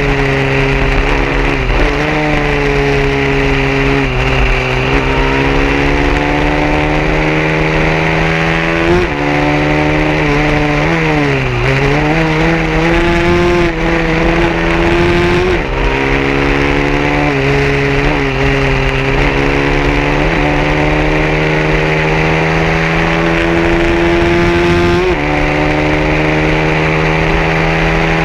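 150cc racing motorcycle engine running hard at high revs. Its pitch climbs steadily, then drops each time it shifts gear, with a deeper dip about eleven seconds in where it slows and picks back up.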